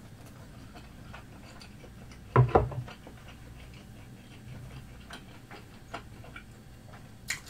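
Close-up chewing of Korean fish cake (eomuk): a run of soft mouth clicks, with one louder brief mouth sound about two and a half seconds in.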